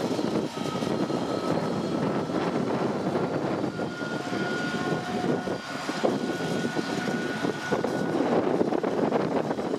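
Freight train of covered wagons rolling past at low speed: a steady rumble of steel wheels on rail, with scattered clicks and a faint, thin, high squeal from the wheels coming and going.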